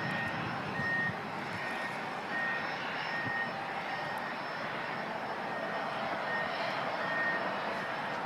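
Steady noise of aircraft engines running, with a vehicle's reversing alarm beeping repeatedly at one high pitch over it.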